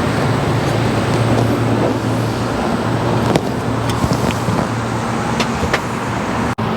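Steady low mechanical drone with a few light clicks and taps over it, and a brief dropout near the end.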